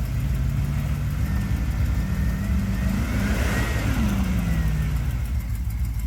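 Old Ford pickup truck's engine running under throttle, revving up about three seconds in and dropping back down, in a failed attempt to spin the truck into a donut.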